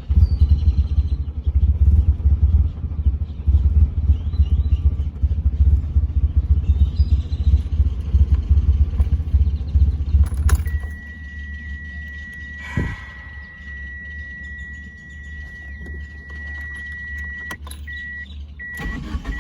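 Car engine idling roughly with an uneven, choppy rumble: a bad idle from a misfire. About halfway it is switched off with a click. A steady high-pitched warning tone then sounds and breaks into short, repeated beeps near the end.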